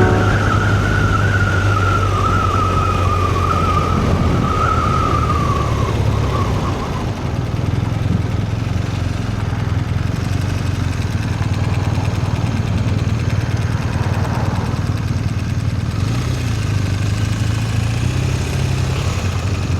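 Motorcycle engine running at a steady speed, a low even drone with no clear revving. A wavering high tone is heard over it during the first six seconds and then fades out.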